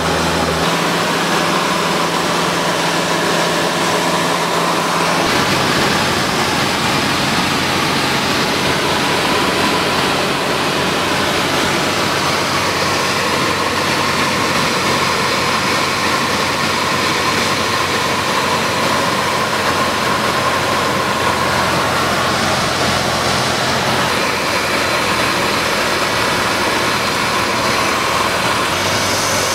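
Cessna 152's Lycoming four-cylinder engine and propeller running, a loud steady drone with a rush of noise over it; the engine note shifts slightly about five seconds in and again near the end.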